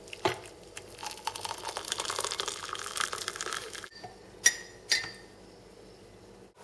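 Rapid clinking and rattling of hard objects, like glass being handled, for about four seconds. After a break come two sharp clinks about half a second apart, each with a short ring.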